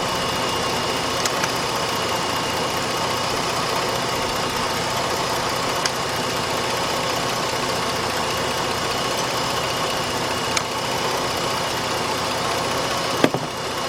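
The 2006 Jeep Grand Cherokee's 3.7 V6 idles steadily, with a faint steady whine over the engine hum. A few single sharp clicks stand out about a second in, near the middle, and near the end.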